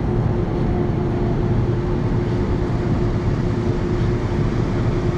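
LA Metro A Line light-rail train running: a steady rumble with one constant hum.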